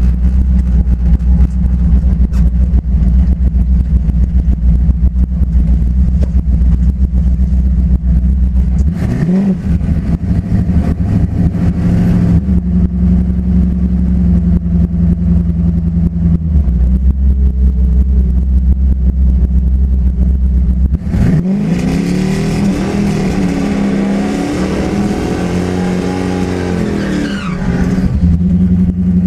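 Twin-turbo Ford Mustang drag car engine: a loud steady low rumble, a short rev-up about nine seconds in, then a hard acceleration about twenty-one seconds in, the pitch climbing and dipping through the gears for about six seconds before it cuts off sharply near the end.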